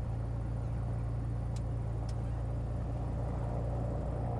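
Beechcraft Bonanza's piston engine running at low taxi power, a steady low drone with cabin noise heard from inside the cockpit. Two faint ticks come about half a second apart, a couple of seconds in.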